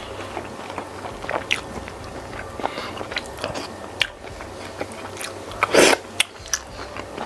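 Close-miked chewing and biting of a jumbo squid (cumi sotong) in sambal, with many small sharp clicks from the mouth. One louder mouth sound comes about six seconds in.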